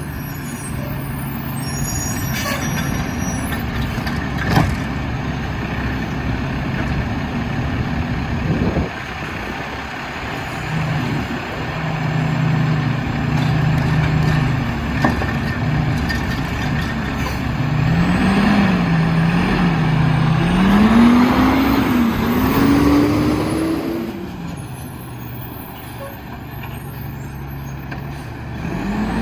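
Diesel engine of an Autocar WXLL McNeilus Autoreach garbage truck running, its pitch stepping up and down and rising and falling repeatedly in the second half before settling back, with a few sharp knocks. The truck's air brakes are heard.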